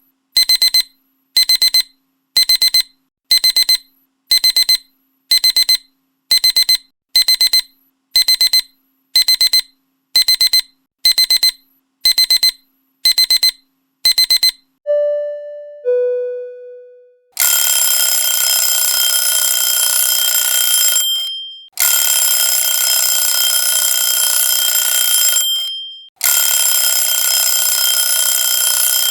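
Alarm clock sounds: quick beeping pulses, about two a second, stop after about fifteen seconds. Two falling chime notes follow, then a loud ringing alarm sounds in bursts of about four seconds with brief breaks.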